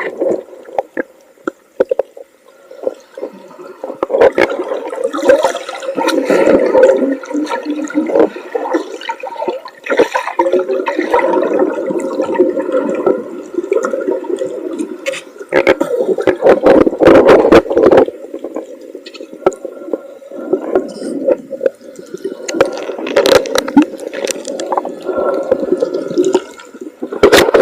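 Seawater churning and bubbling around the microphone of a camera in the water during swimming, with louder splashing surges near the middle and at the end.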